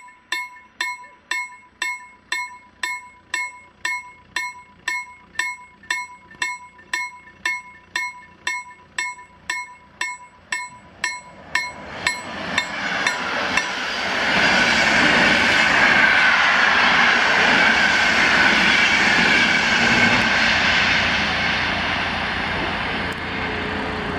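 A level-crossing warning bell dinging about three times a second, which fades about halfway through. A PKP Intercity EP07 electric locomotive hauling passenger coaches then passes close by, its wheels running loud and steady on the rails.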